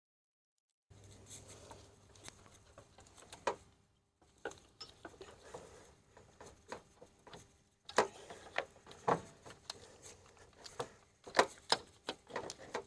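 Ratchet clicks and irregular metal knocks and scrapes from hand tools working in an engine bay, as the lower alternator bolt is backed out and the alternator is worked loose from its bracket.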